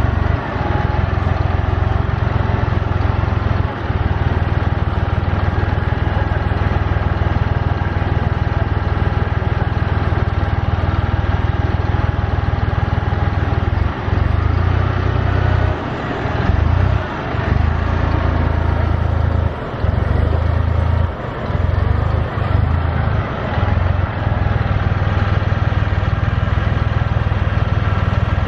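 An engine running steadily at a constant speed, with a few brief dips in level.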